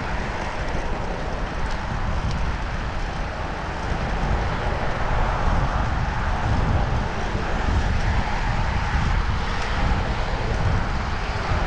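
Steady rush of wind buffeting a chest-mounted GoPro on a moving bicycle, with a low rumble of road noise, a little louder from about four seconds in.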